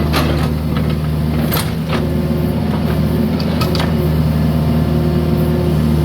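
Mini excavator's diesel engine running steadily, with several sharp knocks and scrapes in the first four seconds as the bucket works broken concrete.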